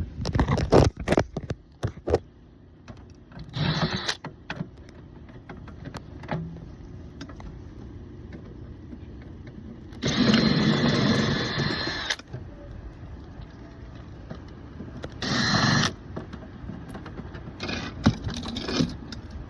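Cordless drill backing out the screws that hold a pest screen over a dryer vent, in short runs of one to two seconds with a whine, the longest about halfway through. Clicks and knocks of the screen being handled come in between, over a steady low hum.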